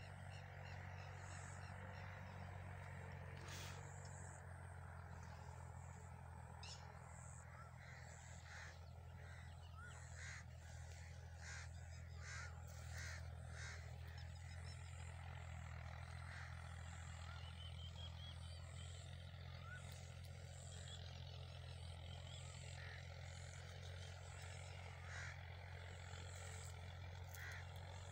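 Faint outdoor ambience with birds calling: short calls come throughout, thickest in the middle, over a steady low hum.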